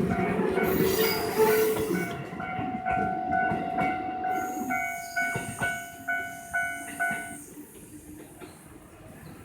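A JR 205-series electric train running past a level crossing, its wheel and rail noise fading after about two seconds. The crossing's warning bell keeps ringing about twice a second, then stops abruptly about seven seconds in, once the train has cleared.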